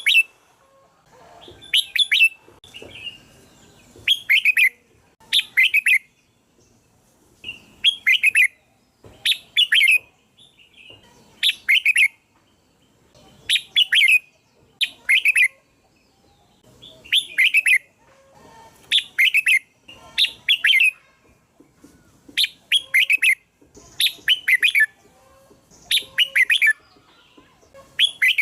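Red-whiskered bulbul singing: short phrases of quick notes falling in pitch, repeated about once a second with a few brief pauses.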